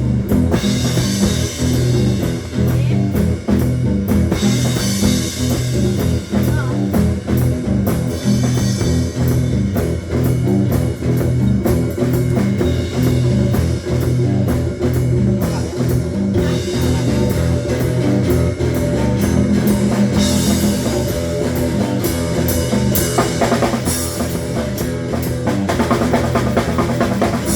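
Live rock band playing an instrumental passage: drum kit keeping a steady beat with cymbal crashes, over guitars and bass.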